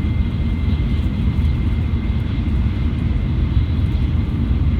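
Shinkansen bullet train running at speed: a steady low rumble with a faint, steady high whine over it.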